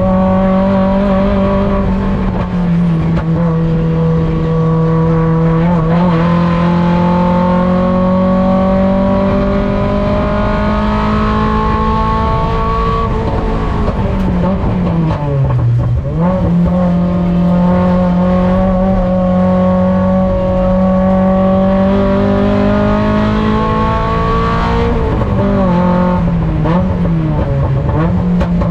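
Mazda Miata race car's four-cylinder engine heard on board under racing load: the pitch dips briefly at an upshift, then climbs steadily as the car pulls. About halfway through it falls steeply with downshifts under braking, climbs again, and falls again near the end.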